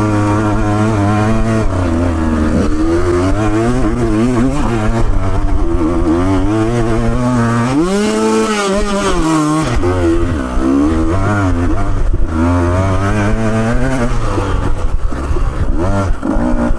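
Off-road motorcycle engine working hard up a steep, rough hill climb, the revs rising and falling with the throttle, with one sharp rev up and back down about eight seconds in.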